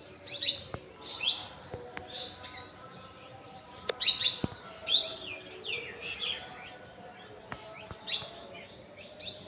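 Small birds chirping: many short, quick downward-sliding chirps, one after another, loudest about four to five seconds in, with a few faint clicks.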